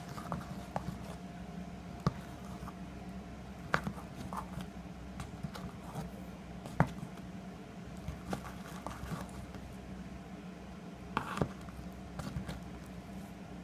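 A spoon stirring slime made of glue, shaving gel and laundry detergent in a container: scattered clicks and taps of the spoon against the container with soft squishing, over a steady low hum.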